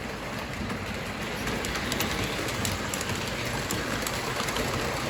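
O gauge model train rolling on three-rail track, a steady rumble of wheels on rails with light clicking that slowly grows louder as it draws near.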